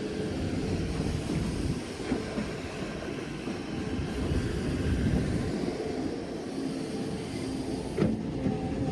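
Heavy earthmoving machinery at work: a steady, low diesel engine rumble, with a sharp knock about eight seconds in.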